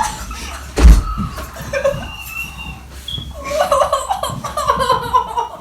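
People laughing loudly, with a heavy thump about a second in.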